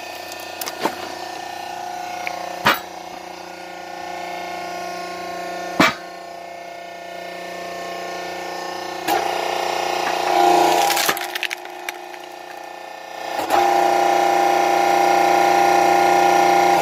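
Electric hydraulic log splitter (380 V) humming steadily while it forces a thick log apart, the wood giving several sharp cracks and splintering sounds. The pump hum gets louder about three-quarters of the way through.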